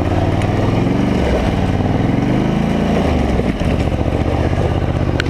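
Polaris Scrambler 850 ATV's parallel-twin engine running under load in low gear as it pushes to get up onto pond ice. The revs rise about a second and a half in, fall back near the middle, then hold steady.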